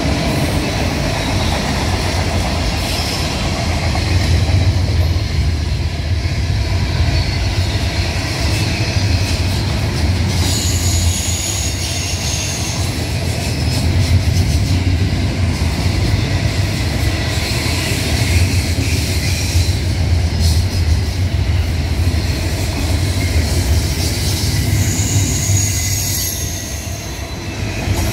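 Freight cars of a mixed train (autoracks, then double-stack container well cars) rolling past: a steady low rumble of steel wheels on rail. Two brief high-pitched wheel squeals, one about ten seconds in and one near the end.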